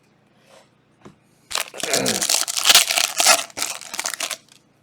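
A trading-card pack's plastic foil wrapper being torn and crumpled by hand: a loud crinkling that starts about one and a half seconds in and lasts about three seconds.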